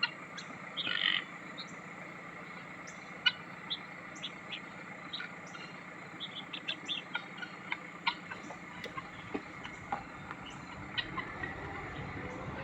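Helmeted guinea fowl calling: many short, sharp chirps scattered throughout, with one louder, harsher call about a second in. A faint rising hum starts near the end.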